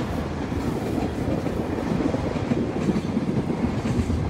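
Container freight train hauled by an electric locomotive passing close by: a steady running noise of wheels on rails.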